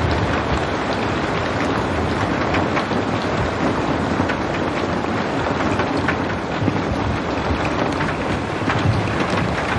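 Steady rain falling, a dense hiss with many small drop impacts and a low rumble underneath.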